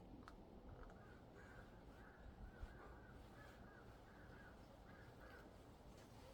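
Faint bird calls, a run of about eight short calls evenly spaced over several seconds, against near silence.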